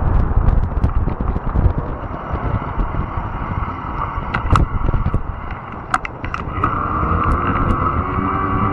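Fat-tire electric bike riding over rough, overgrown ground: a steady rumble of tyres and wind with scattered sharp clicks and snaps. About two-thirds of the way in, a steady electric motor whine comes in and holds.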